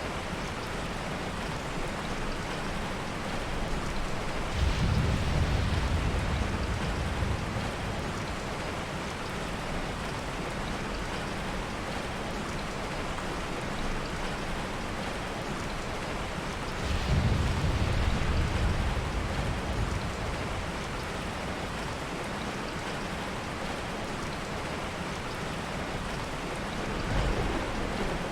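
Steady heavy rain with soft thunder rumbling twice, each roll lasting two or three seconds, and a fainter third rumble near the end.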